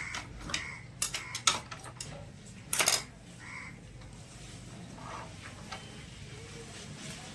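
A series of sharp metallic clicks and knocks, hand tools and loose engine parts handled during motorcycle engine disassembly, the loudest about three seconds in, then only a few faint taps.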